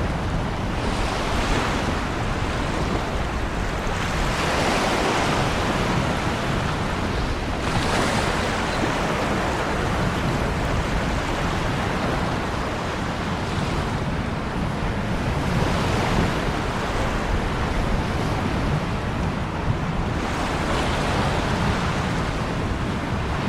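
Ocean waves breaking and washing on a shore: a continuous rushing hiss that swells with each wave every few seconds and falls back.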